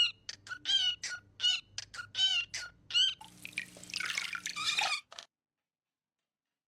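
A pet parrot giving a quick run of short, squeaky calls, about three a second, then a hissy rustle for a couple of seconds before the sound cuts off abruptly.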